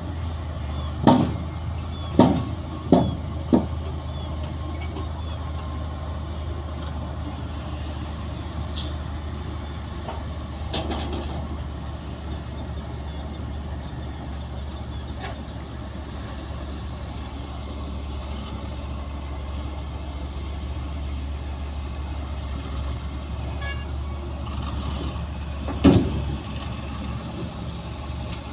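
Heavy diesel engine of construction machinery running steadily at a low drone, with four sharp bangs in the first few seconds and another loud bang near the end.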